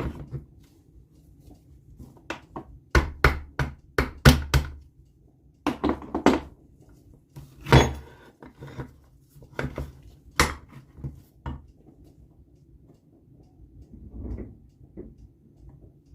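Irregular sharp knocks and metallic clinks of tools striking and handling the metal parts of an NSU Quickly two-speed moped engine as its crankcase halves are worked apart. The knocks come in clusters, the loudest a few seconds in and again near the middle, with softer handling noise near the end.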